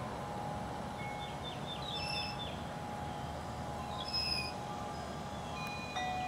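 A songbird singing a quick run of short, downslurred chirps about a second in, over a steady low background rumble, with a couple of clear ringing notes near the middle.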